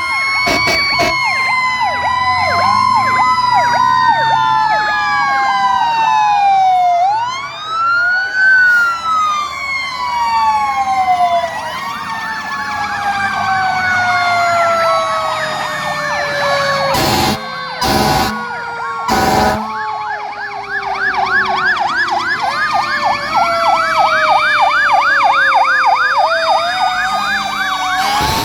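Several fire truck sirens sounding at once: wails rising and falling, one long tone winding slowly down, and a fast yelp near the end. Three short loud blasts cut through about two thirds of the way in.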